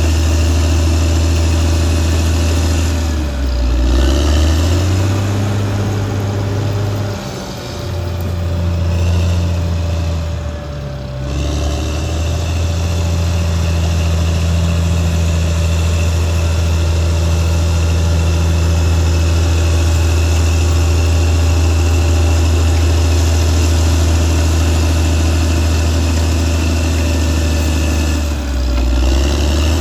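Caterpillar D6R XL bulldozer's diesel engine running hard. Its steady low note dips and picks back up a few times, around 3 to 4 seconds in, around 7 and 11 seconds, and again near the end.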